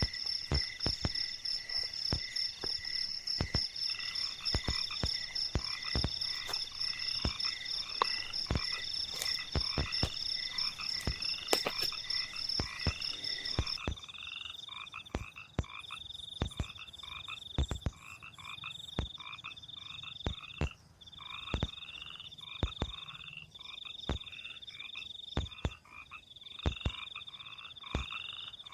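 Frogs croaking in a chorus in flooded rice paddies at night, with a fast-pulsing insect trill that stops about halfway through. Frequent sharp clicks and knocks sound throughout.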